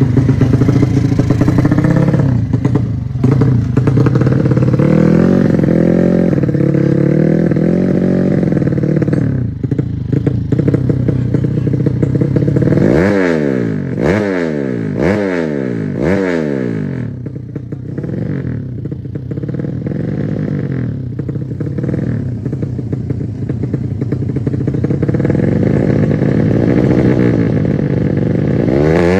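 Drag-bike motorcycle engine, a Yamaha Jupiter fitted with a Honda Supra cylinder head, running and being revved during its first tuning. About halfway through, the throttle is blipped about four times in quick succession, the pitch rising and dropping sharply each time.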